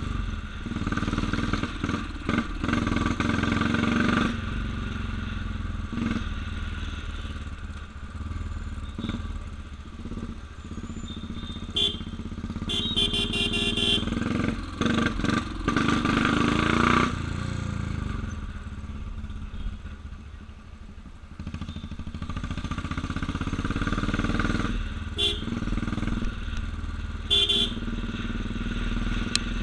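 Motorcycle engine running on the move in traffic, easing off and picking up again about two-thirds of the way through. A vehicle horn sounds in a quick series of short blasts about twelve seconds in, and twice more near the end.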